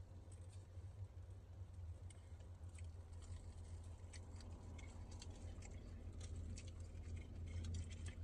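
Quiet eating sounds of fried chicken being chewed: scattered small crunches and mouth clicks over a steady low hum.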